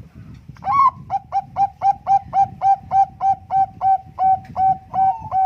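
Bangkok-strain perkutut (zebra dove) singing a fast, even series of short, clipped coos, about four a second, starting about half a second in.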